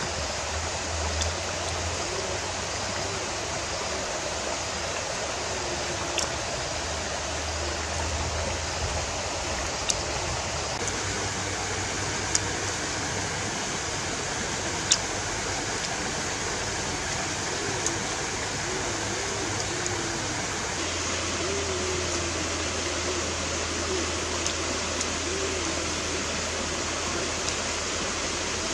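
Steady hiss with a few sharp, scattered mouth clicks from someone chewing and smacking her lips on cooked shrimp.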